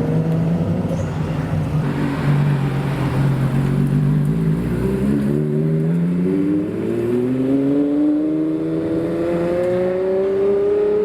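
Supercar engine running at a steady low note, then rising smoothly in pitch over the second half as the car accelerates away.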